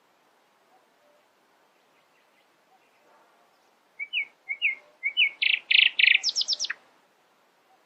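A songbird singing one short phrase about four seconds in: a few quick slurred whistles, then three buzzy trilled notes and a fast high run at the end.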